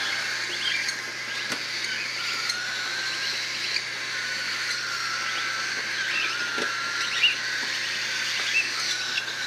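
A chorus of baby cockatiels calling, many overlapping chirps and calls with one continuous wavering call through it, over a low steady hum.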